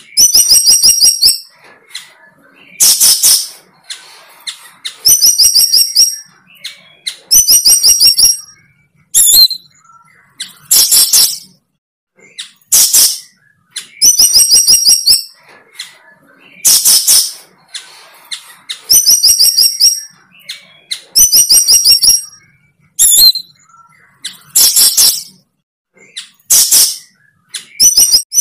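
Bird calls repeated over and over: short rapid trills alternating with harsh, hissing bursts, a new call about every two seconds.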